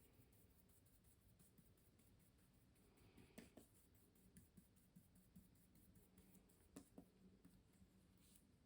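Faint scratching strokes of an artist's tool on canvas, with a light tap about three and a half seconds in and two more close together near seven seconds, over a low steady hum.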